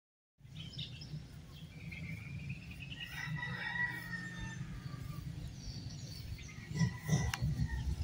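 Birds chirping and singing, with thin whistled calls over a steady low outdoor rumble. A sharp knock and some rustling come about seven seconds in.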